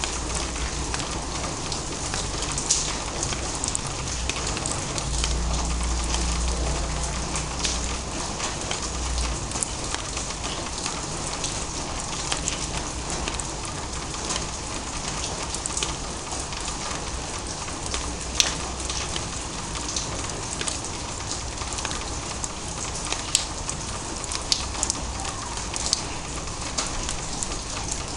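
Drizzle falling: a steady patter of light rain with scattered sharp drop ticks. A low rumble swells for a few seconds about five seconds in.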